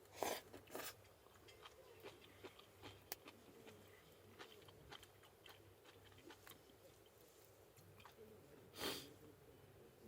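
A person eating a bowl of ramen: quiet chewing with many small clicks, and a short noisy burst near the start and again about nine seconds in.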